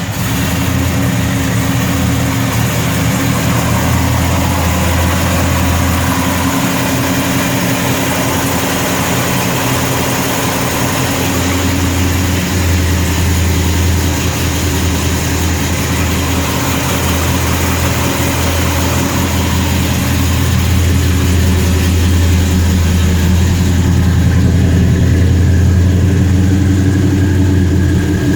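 1967 Chevelle SS's V8 idling steadily just after a cold start, a deep, even idle that grows slightly louder near the end.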